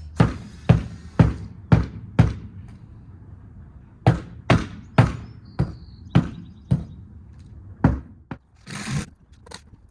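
Hammer blows on a wooden fence board: a run of five strikes about two a second, a short pause, then another run of strikes.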